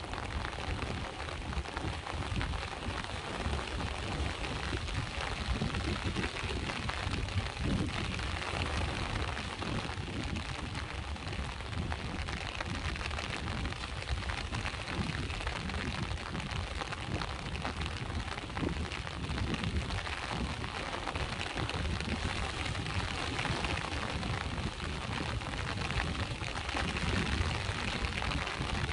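Steady rain falling together with sea waves washing ashore: a continuous wash of noise over a low rumble.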